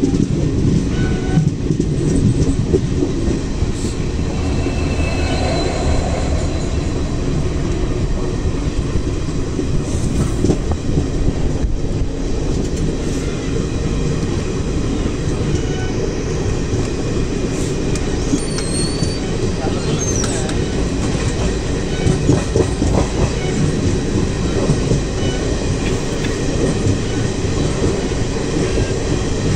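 A passenger train heard from inside a coach near an open window, running steadily with a continuous rumble and rattle of wheels on the rails. A couple of brief high squeaks come about two-thirds of the way in.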